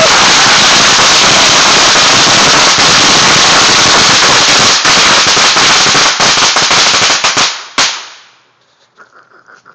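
A string of about 500 firecrackers going off in a very loud, rapid, unbroken crackle of pops that dies away about seven and a half seconds in, with one last bang just after.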